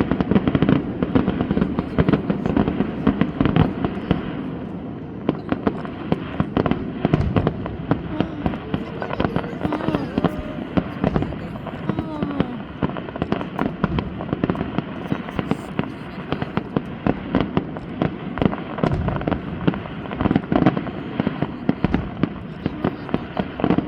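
Fireworks display: a dense run of bangs and crackles, heaviest in the first four seconds, then a steadier stream of pops and crackling.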